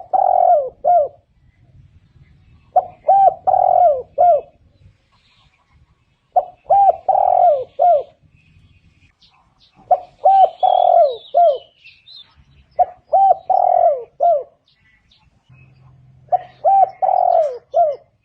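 Spotted dove cooing in repeated phrases about every three and a half seconds. Each phrase is two short coos, a longer one, and a falling final note. Another bird chirps faintly in the background.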